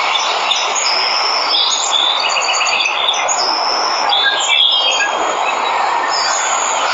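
Steady rushing of a waterfall, with several birds chirping and whistling short high notes and trills over it.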